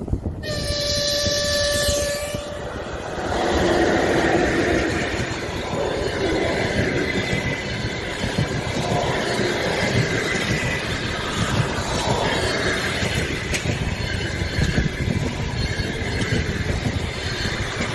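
An EP1 electric locomotive sounds its horn once, one held note lasting about two seconds, as it approaches. Then the locomotive and its long train of passenger coaches run past at speed, a steady loud rush of wheels on the rails.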